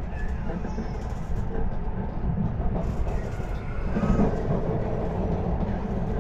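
Steady running noise inside a Tokaido Shinkansen passenger car, low and even.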